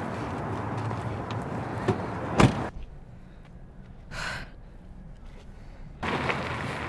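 Steady background noise with one sharp knock about two and a half seconds in. The noise then drops away for about three seconds, with one short breathy sound in the quiet, before it comes back.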